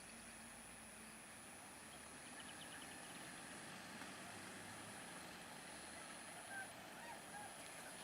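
Faint outdoor ambience: a steady high-pitched whine with a few faint, short chirps.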